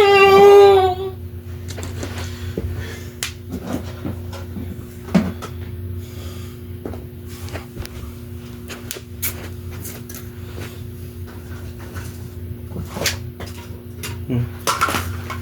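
Scattered light clicks and knocks of small toy figurines and props being handled and set down, over a steady low hum. A held sung note ends about a second in.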